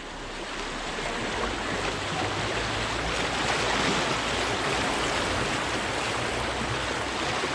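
Fast-flowing creek water rushing over a riffle. It grows louder over the first two seconds, then holds steady.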